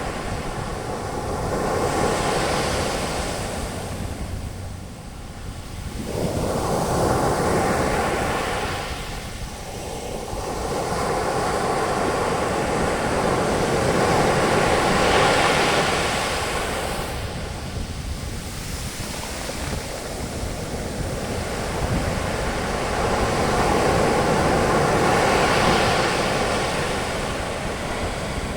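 Ocean waves breaking on a beach, their foam hissing up the sand in slow surges that swell and fade every few seconds.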